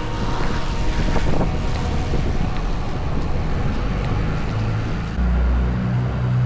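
Pickup truck driving along a gravel trail: steady road and wind noise with engine rumble. A deeper, louder low drone comes in about five seconds in as the truck runs into a tunnel.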